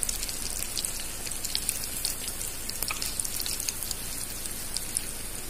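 Breadcrumb-coated, chicken-filled bread snacks shallow-frying in hot oil: a steady sizzle full of fine crackles.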